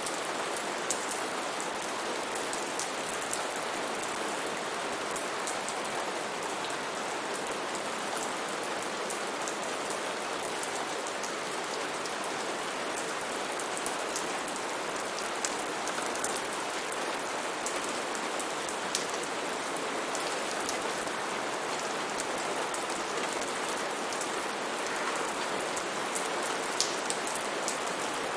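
Steady heavy rain falling on foliage, a dense even hiss with many individual drops pattering close by.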